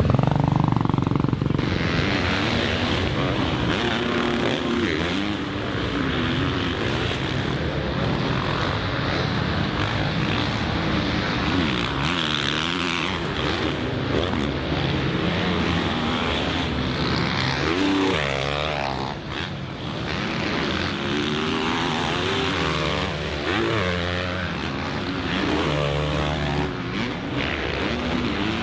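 Motocross bike engine revving hard and dropping back over and over, its pitch rising and falling with the throttle and gear changes as it is ridden around the track.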